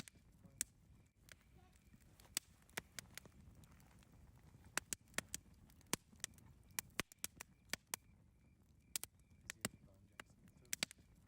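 Wood fire crackling: irregular sharp pops and snaps, several a second at times, over a soft low rumble of burning.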